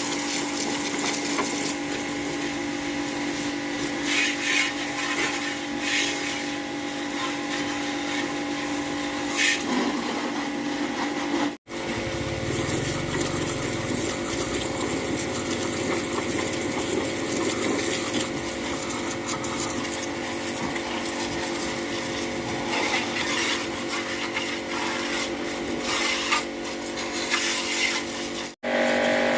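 A power tool running steadily with a scraping, rubbing sound of work on a surface. The sound cuts out abruptly twice as the shots change.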